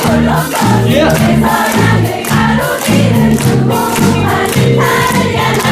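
Live musical-theatre song: several voices singing together over accompaniment with a steady beat.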